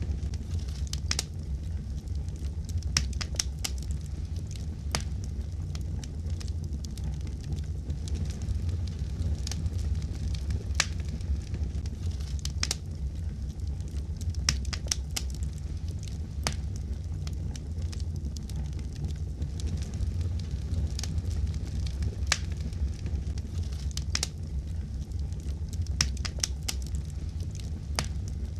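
Fireplace fire crackling: a steady low rumble of flames with irregular sharp pops and snaps, a few every second or two.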